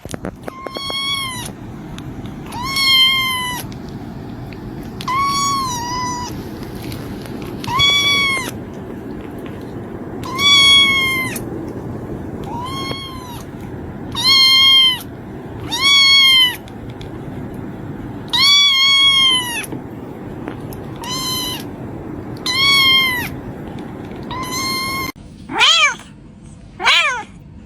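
Kitten meowing over and over, high-pitched arching cries about every two seconds, then a quicker run of short calls near the end, over a steady low background noise.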